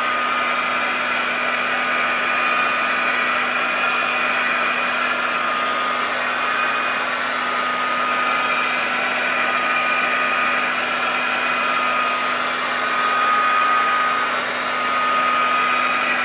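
Electric heat gun running steadily: an even rush of air with a faint high whine. It is heating a warped pinball playfield plastic until it softens enough to flatten.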